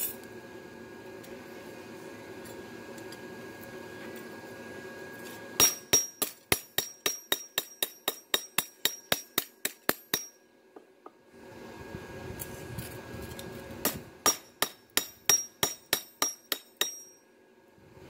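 Hammer striking steel blade stock in quick blows, about five a second and ringing brightly, in two runs: one starting about five seconds in, then a shorter one after a pause. Before the strikes, the electric blower feeding the forge hums steadily.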